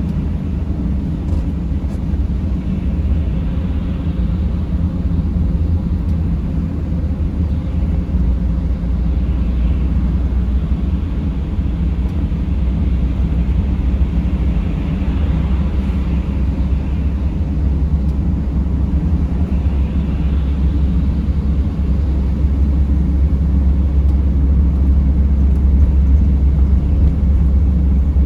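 Steady low rumble of a Mercedes Sprinter van's engine and tyres while it drives on a snowy road, with a few passing swells of hiss, growing slightly louder after about twenty seconds.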